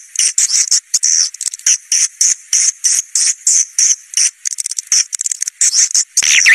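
Swiftlet caller recording: a rapid run of high-pitched swiftlet chirps repeating about four to five times a second, used to lure a flock of swiftlets to a nest house. Near the end a denser, lower twittering joins in.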